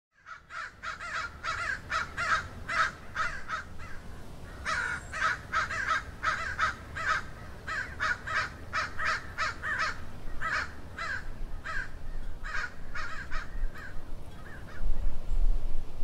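A garden bird giving a rapid run of harsh calls, about three or four a second, which stops near the end. A low background rumble swells near the end.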